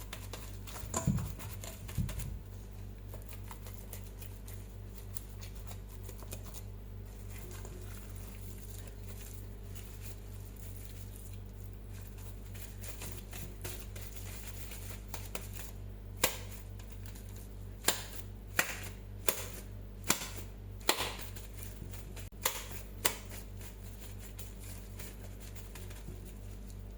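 Hands handling raw beef mince for hamburger steak patties over a steady low hum: two soft knocks early on, then a run of about eight sharp slaps in the second half.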